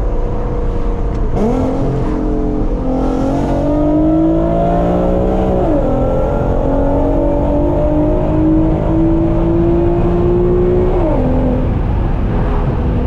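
Nissan VQ V6 engine pulling hard under full acceleration. It climbs in pitch, drops sharply at an upshift about six seconds in, climbs again, and drops at a second upshift about eleven seconds in before settling.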